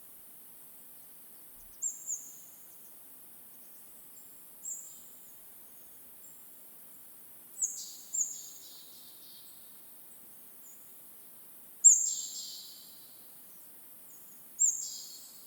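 A bird's high, thin calls, each a short note that slurs downward and trails off, about seven in all at irregular intervals, the loudest about three-quarters of the way through, over a faint steady hiss of forest ambience.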